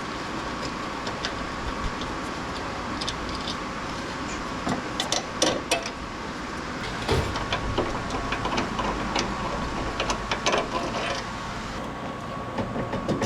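Scattered clicks, clinks and light knocks of hand tools and parts being handled during work on a car, irregular and more frequent in the middle, over a steady background hum with a faint constant tone.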